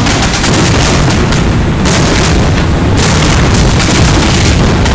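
Aerial fireworks display: shells bursting in close, continuous succession with crackle, loud throughout with no pause between bangs.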